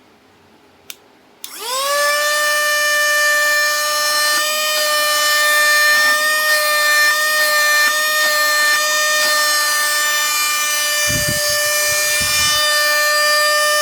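A handheld mini vacuum cleaner switched on with a click. Its small motor spins up to speed within a moment and runs with a steady high whine, with a few low bumps from handling near the end.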